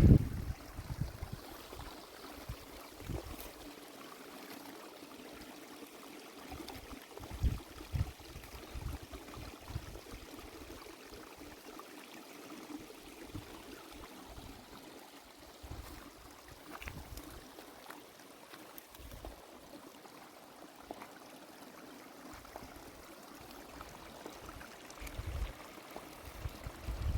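Spring water running and trickling steadily, with a few brief low thumps.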